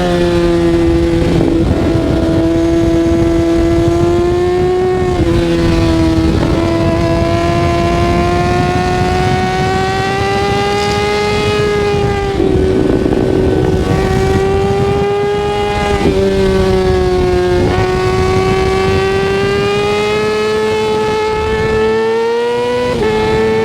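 Kawasaki ZX-6R 636's inline-four engine running hard under way, its note climbing slowly and stepping abruptly up or down several times as the rider changes gear and throttle, over a steady low rush of wind.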